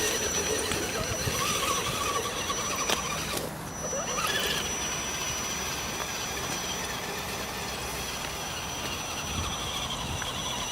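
Axial 4x4 RC crawler's electric motor and drivetrain whining steadily as it drives off-road, with a thin high whine that cuts out briefly about three and a half seconds in, and a few light clicks.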